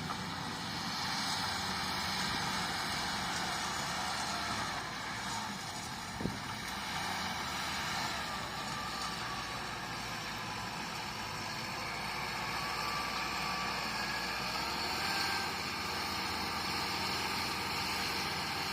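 Bulldozer's diesel engine running steadily at work, with one sharp knock about six seconds in and faint higher whines coming and going in the middle.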